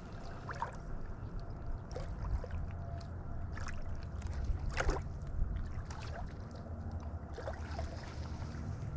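Steady low rumble of wind and flowing river water on the microphone, with a few scattered short clicks and scuffs.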